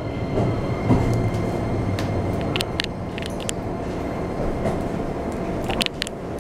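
Interior running noise of a Keikyu New 1000 series electric train rolling slowly into a station. The low rumble eases off about halfway through, with a few short, sharp high clicks near the middle and again near the end.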